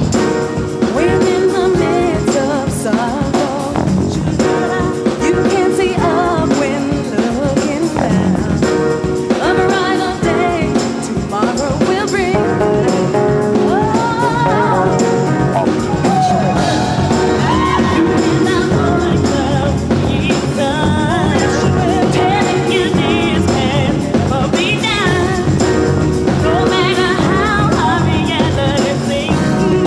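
Gospel vocal group singing live with a full band, the voices sliding through long runs over the steady accompaniment.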